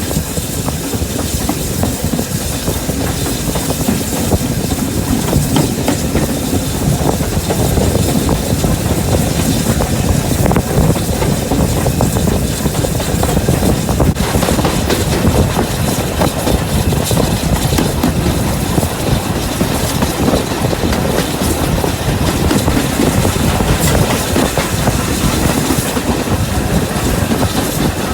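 Train running steadily along the line: a continuous rumble of wheels on rail, with clickety-clack over the rail joints.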